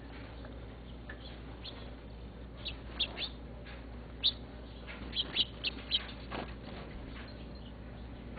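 Birds chirping: short, high chirps, a cluster of them near the middle, over a steady low hum.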